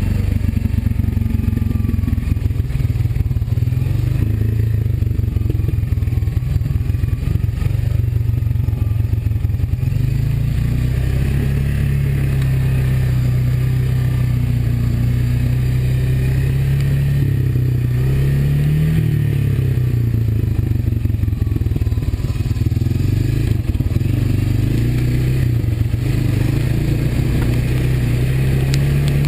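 Honda ATV's single-cylinder four-stroke engine running under way on a trail. The note is rough and uneven at first, then steadier, with a brief rise and fall in revs about two-thirds through and the revs climbing again near the end.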